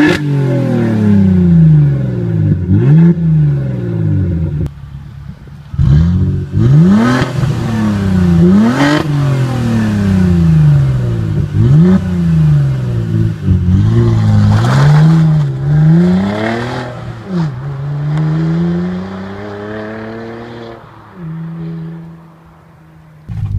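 Saab 9-3 Aero 2.8T's turbocharged V6 running straight piped through an open exhaust cutout, loud, revving up and down over and over. Near the end it settles to a steady lower note.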